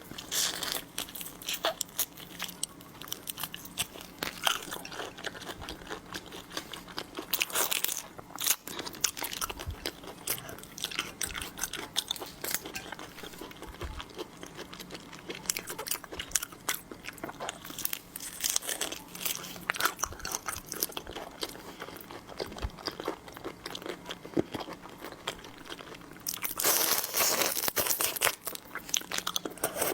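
Close-miked eating of seafood: irregular crunching, biting and chewing, with a louder, denser run of crunching near the end.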